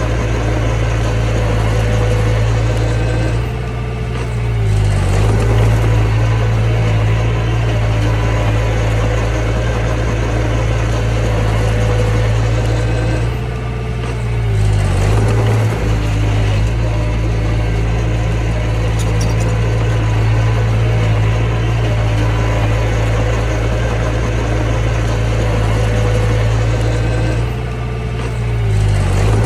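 Mini bulldozer's diesel engine running steadily under working load, dipping briefly in loudness and pitch three times, about every twelve seconds, and picking up again each time.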